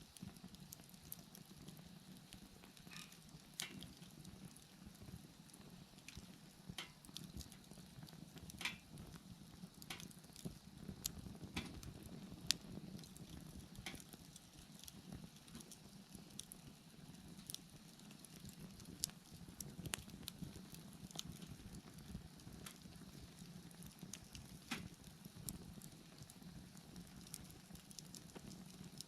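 Wood bonfire burning, with irregular crackles and pops of burning wood over a low steady rumble.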